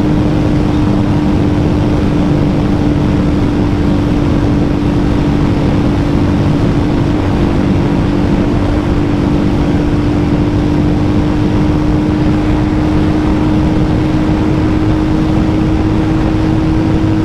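Royal Enfield Hunter 350's single-cylinder engine held near top speed in fifth gear, around 130 to 140 km/h, a steady unbroken drone under heavy wind and road rush.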